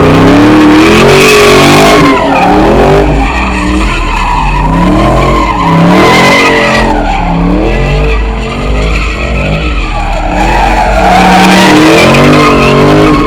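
A car doing a burnout at full throttle: the engine revs rise and fall over and over while the tyres squeal and skid on the pavement. Loud throughout.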